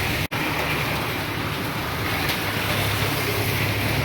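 Steady heavy rain noise with a low rumble underneath, broken by a split-second dropout about a third of a second in.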